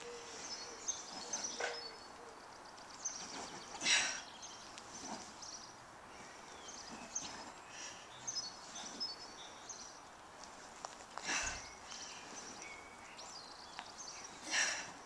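Small birds chirping and singing in the background, with about three short, sharp breaths out from a woman exerting herself on an exercise ball.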